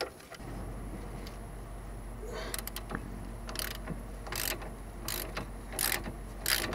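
Ratchet wrench clicking in repeated short strokes, about one and a half a second, as a brake caliper guide-pin bolt is worked loose, over a steady low hum.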